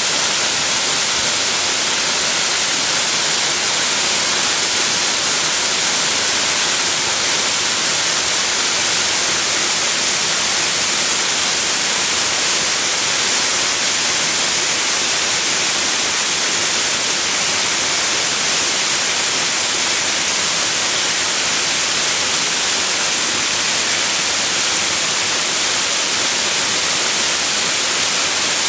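Waterfall pouring steadily: a loud, even rush of falling water, strongest in its high hiss.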